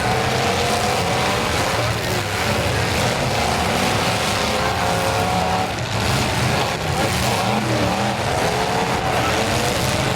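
Several demolition derby cars' engines revving at once, their pitches rising and falling over each other above a steady loud din.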